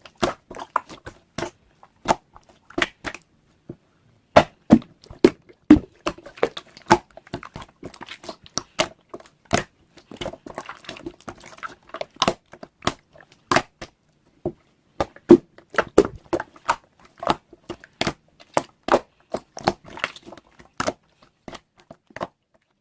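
Close-up ASMR handling sounds: irregular sharp crinkles and taps, several a second in busy stretches, with short pauses between.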